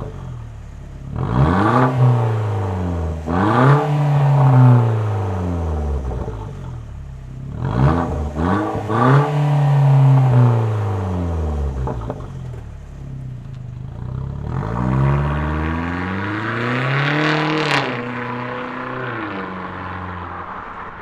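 Opel Astra 1.4 turbo four-cylinder with a tuned exhaust system, revved from idle in a series of throttle blips that rise and fall back to a steady idle. One long rev comes late on.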